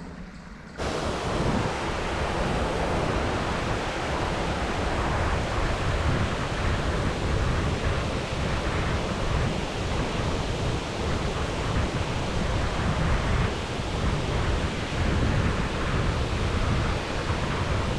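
Steady rushing of flowing river water, mixed with wind on the microphone, cutting in suddenly about a second in.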